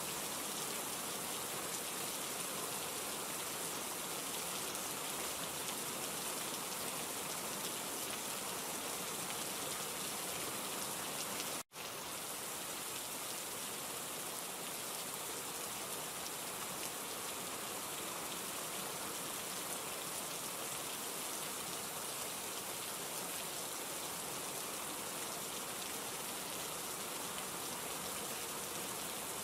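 Steady rain falling, an even hiss of drops. It drops out for an instant about twelve seconds in, then carries on unchanged.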